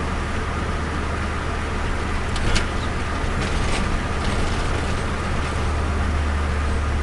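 Turbocharged Nissan Micra's engine running with a steady low drone, with two short sharp clicks a little before and after the middle.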